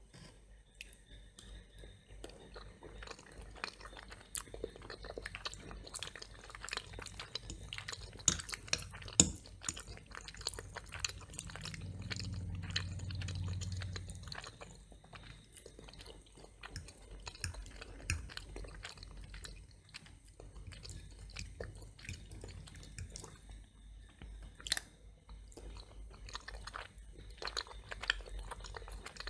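Close-miked chewing of macaroni and cheese and crunchy toast, full of sharp crunchy clicks, with two louder crunches about eight and nine seconds in.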